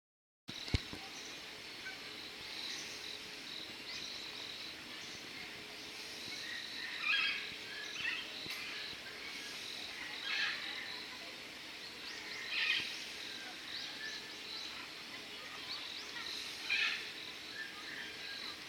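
Steady outdoor animal ambience with a constant high insect-like chirring, broken every two seconds or so by short high-pitched calls. A single click sounds just as the sound begins.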